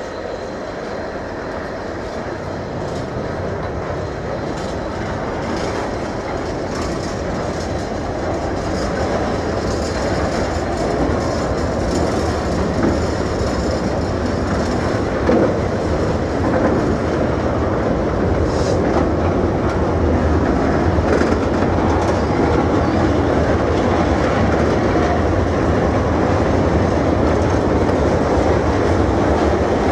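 Long rake of empty steel box wagons of a diesel-hauled freight train rolling past, wheels clattering over the rail joints with a steady rumble and rattle that grows gradually louder.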